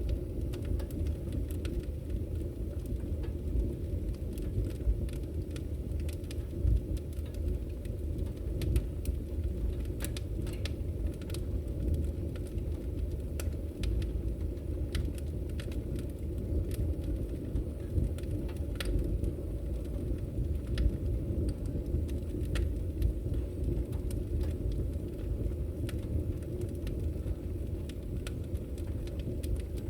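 Firewood burning: a steady low rumble of flame with scattered sharp crackles and pops from the wood.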